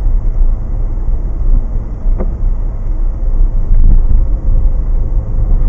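Car on the move, steady low rumble of road and engine noise with a brief tick about two seconds in.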